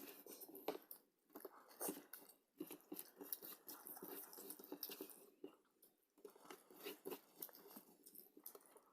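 A person chewing and biting food close to the microphone, faint, with irregular soft crunches and wet clicks and brief pauses between mouthfuls.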